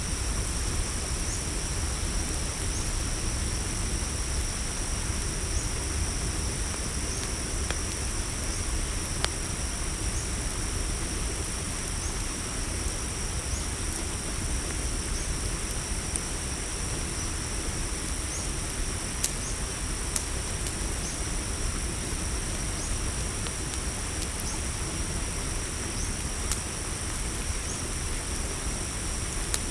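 Crickets trilling steadily in a high continuous chorus, with a fainter chirp repeating about every second and a half. Over a low steady rumble, a crackling campfire gives a few scattered sharp pops.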